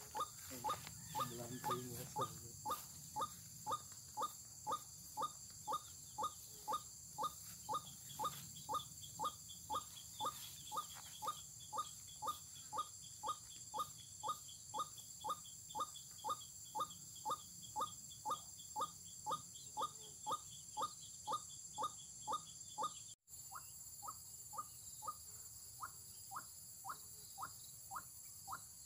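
Ruak-ruak (white-breasted waterhen) call: one short note repeated steadily, about one and a half to two times a second.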